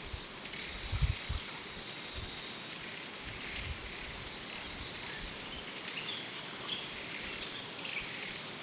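Steady high-pitched insect chorus droning without a break, with a few low thumps about a second in.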